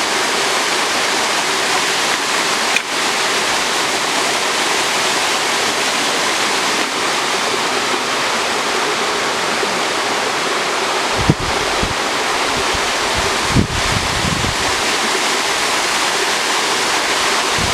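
Waterfall rushing with a steady, loud roar of falling water. From about eleven seconds in, low thumps of wind buffet the microphone now and then.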